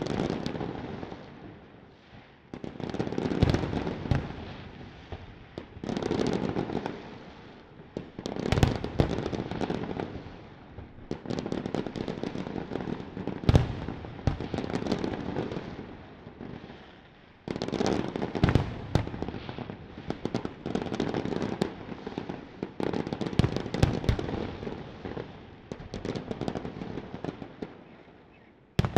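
Fireworks display: waves of shells bursting with deep booms, each followed by dense crackling and popping, swelling and fading every few seconds.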